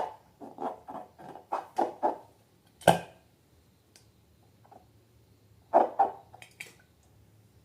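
Slime being squeezed by hand, a quick run of wet squelches in the first two seconds, then a single sharp click about three seconds in, and two more squelches near six seconds.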